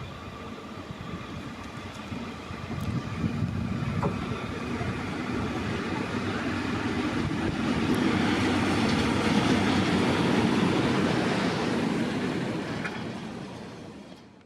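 EP07 electric locomotive rolling past on the rails while shunting, its running noise building up and then fading away.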